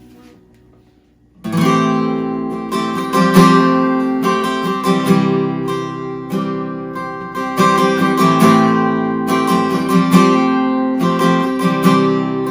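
Acoustic guitar strumming chords, starting suddenly about a second and a half in after a faint fading tail of sound.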